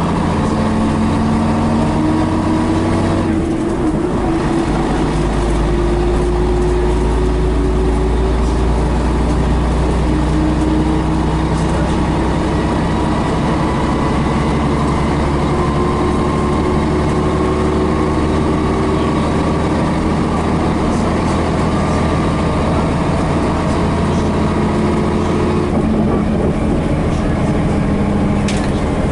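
Scania BR111H / MCW Metropolitan double-decker bus with its diesel engine under way, its note rising slowly over some twenty seconds. The engine note changes sharply about three seconds in and again near the end.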